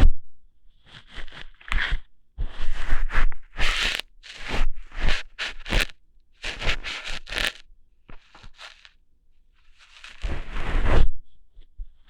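Ear-hair plucking for ASMR, close to the microphone: irregular crackly, scratchy rustles in short bursts, several with a low thud beneath.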